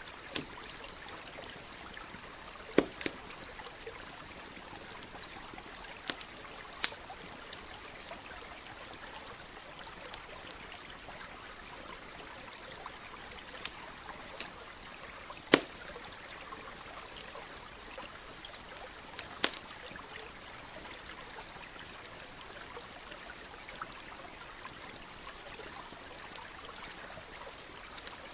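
Campfire crackling, with scattered sharp pops from the burning wood, the loudest about halfway through, over the steady rush of a flowing stream.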